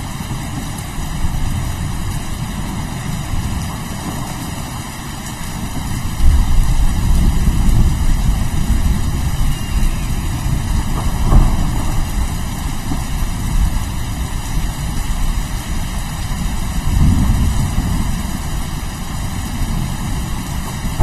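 Steady rain with rolling thunder: a continuous hiss of rainfall under deep low rumbles that swell about six seconds in and again near the end.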